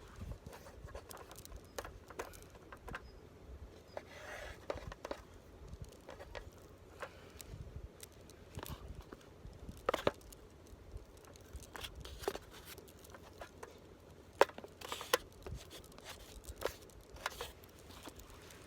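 Objects being handled on a hard surface: scattered light clicks, knocks and scrapes with some rustling, and sharper knocks about ten seconds in and again about four seconds later.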